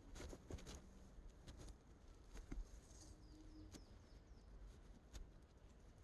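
Near silence: faint outdoor ambience with scattered small clicks and a short run of faint falling bird chirps a few seconds in.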